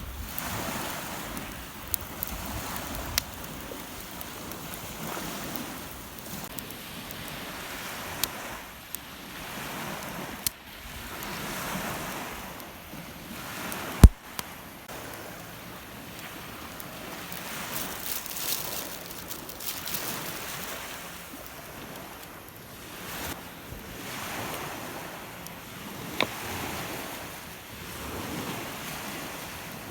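Rough lake waves breaking on the shore, the surf swelling and falling every few seconds, with wind on the microphone. A single sharp knock about halfway through is the loudest sound, and a few fainter clicks come and go.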